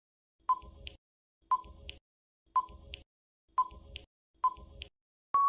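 Countdown timer sound effect: five short beeps about a second apart, then a longer steady beep of the same pitch near the end, marking time up.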